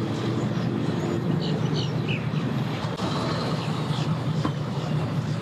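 A vehicle engine running steadily: a low, even drone.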